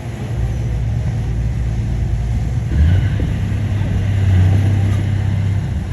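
Heavy diesel engine of a bulldozer running with a low drone that grows louder about three seconds in.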